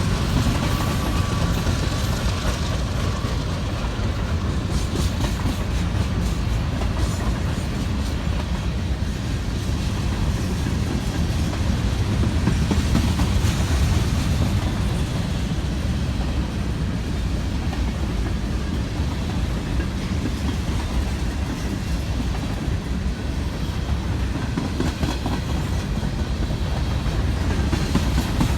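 A freight train rolling past at close range, a steady heavy rumble of railcar wheels on the rails.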